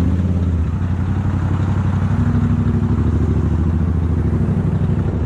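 Motorcycle engine running steadily at low revs with a fast, even low pulse, close to the microphone.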